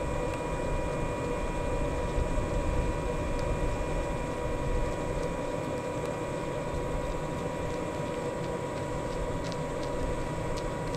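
Shinano Railway 115 series electric train running at steady speed: a continuous low rumble of wheels on rail with a steady high tone running through it and a few faint clicks.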